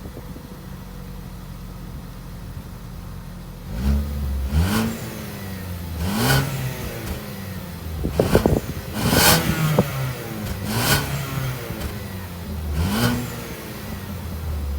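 2015 Ford Escape Titanium's four-cylinder engine idling, then revved in about seven quick throttle blips, each rising in pitch and dropping back to idle, before settling at idle near the end.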